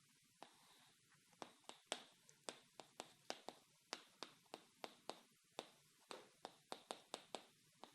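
A run of light, sharp clicks or taps, irregularly spaced at about three a second, starting about half a second in, over faint room tone.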